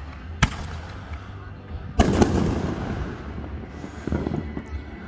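Aerial fireworks going off: a sharp bang about half a second in, then a louder double burst about two seconds in with crackling trailing after it, and more crackling near the end.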